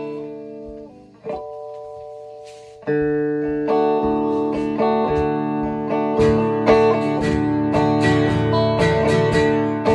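Guitar playing a country song's instrumental intro: a couple of chords struck and left to ring, then steady rhythmic strumming from about three seconds in.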